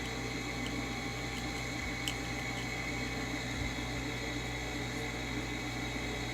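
Steady low hum and hiss of background room noise, with one faint tick about two seconds in.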